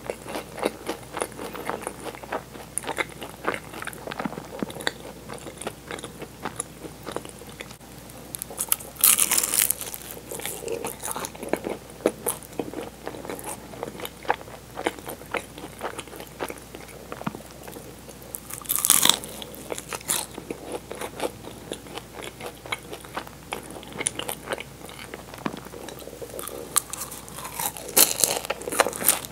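Close-miked chewing of egg tarts, the flaky puff-pastry shell crackling with many small clicks. Loud crunching bites come about 9 seconds in, again about 19 seconds in, and near the end.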